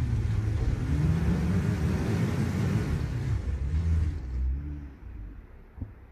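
Jeep Gladiator pickup's engine revving, its pitch rising and falling, with a rushing hiss over it; both ease off about four and a half seconds in to a low rumble.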